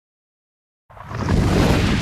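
A loud rushing, whoosh-like noise burst with a low rumble, starting abruptly about a second in and cut off sharply just over a second later, in the manner of an intro sound effect.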